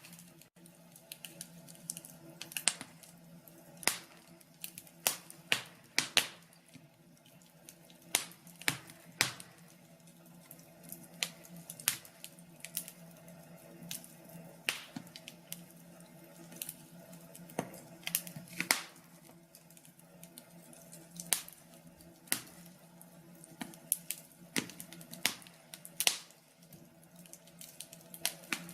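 Wood fire in a fireplace crackling: irregular sharp pops and snaps, roughly one or two a second, some much louder than others, over a faint steady hum.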